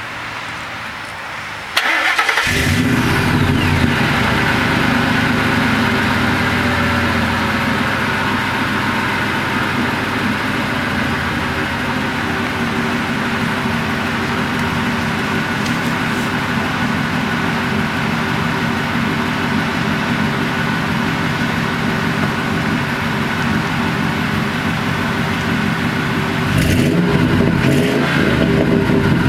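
2002 Ford F-150's 5.4-litre V8 with Flowmaster dual exhaust, started about two seconds in and then idling steadily through the mufflers. Near the end the engine note rises and gets louder.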